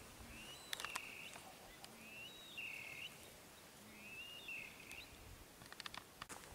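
A bird calling faintly in the distance, the same short high call repeated four times about every second and a half to two seconds, each rising briefly and then held level. A few faint clicks sound about a second in and again near the end.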